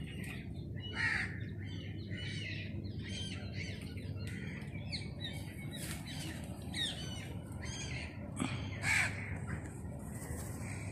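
Crows cawing again and again, mixed with the chirps of other small birds, over a steady low hum.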